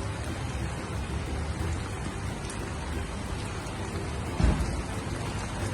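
Heavy rain falling steadily, an even hiss with a low rumble beneath it. A single dull thump about four and a half seconds in is the loudest sound.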